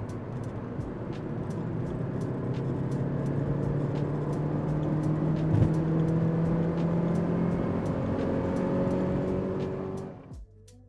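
Porsche 944 Turbo's turbocharged 2.5-litre four-cylinder engine pulling under load, heard from inside the cabin, its revs climbing steadily for about ten seconds as boost builds, then falling away suddenly near the end.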